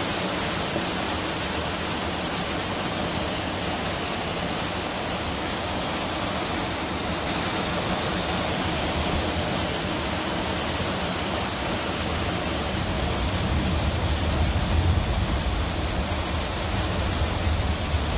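Heavy rain pouring onto a tin roof, a steady hiss. A low rumble of thunder comes in a little past the middle and grows toward the end.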